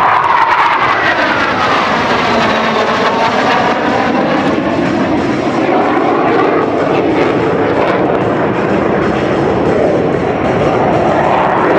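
T-50 Golden Eagle jet trainer's single turbofan engine, loud and continuous as the jet flies a Cuban 8 loop. Its tones fall in pitch over the first few seconds and rise again near the end.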